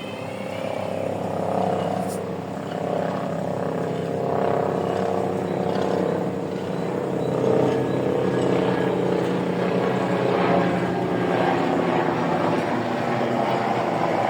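Leonardo helicopter flying past, a continuous rotor and turbine sound with steady tones in it, growing louder over the first few seconds and then holding steady.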